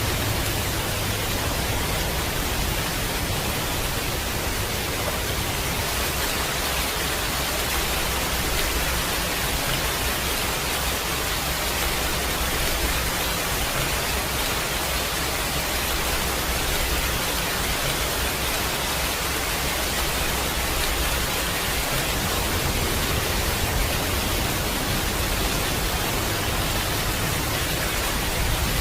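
Heavy rain falling as a steady, even hiss with no distinct drops standing out.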